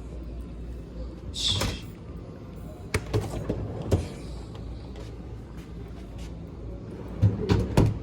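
A few short knocks and clunks, like doors or panels being handled: one about a second and a half in, two near three and four seconds, and a quick cluster near the end. Background music plays under them, over a steady low hum.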